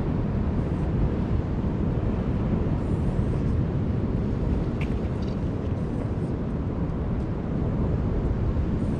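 Steady low rumble of wind buffeting the microphone, holding even throughout, with a couple of faint clicks about five seconds in.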